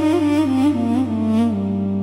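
Background music: a flute-like wind instrument plays a short melody that steps down in pitch over a steady low drone, then holds a low note.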